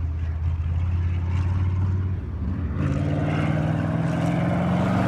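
Sprint car's V8 engine running, a steady low drone at first; about three seconds in its note comes in strongly and grows louder as the car comes on the throttle.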